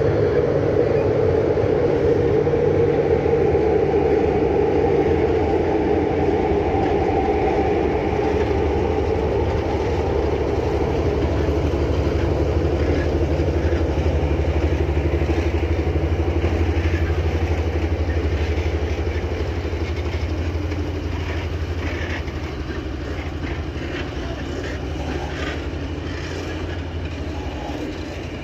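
A train running past with a steady low hum and the faint clatter of wheels over rail joints, the sound easing off over the last third.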